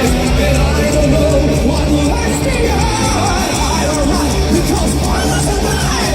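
Heavy metal band playing a song live: loud guitars and a steady low end, with a singing voice over them.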